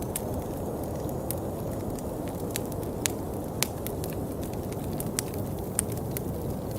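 Steady rain, a dense low hiss, with scattered sharp taps of drops striking close by. A few louder taps fall around three seconds in and again near six seconds.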